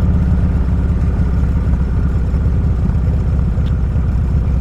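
Motorcycle engine running at a steady speed while riding, a loud low drone with no change in pitch.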